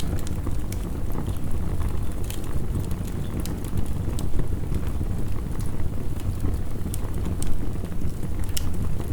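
Heavy rain as a steady low rushing, with the irregular sharp crackles and pops of a wood fire scattered over it.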